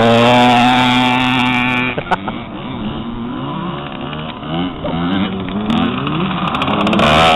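Motocross bike engines revving, their pitch rising and falling again and again as the throttle is worked.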